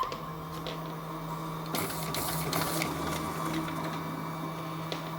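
Inotec Scamax 6x1 production document scanner running and feeding sheets through: a steady motor hum with paper-transport noise and a few light clicks around two seconds in.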